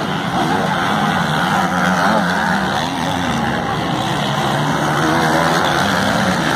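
Several racing motorcycle engines (250 and 450 cc off-road bikes) running hard, their pitch rising and falling as they rev up and down.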